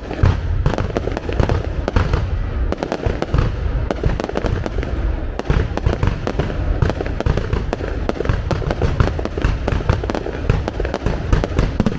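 Fireworks display: a continuous barrage of shell bursts, deep booms mixed with sharp cracks, following one another without a pause.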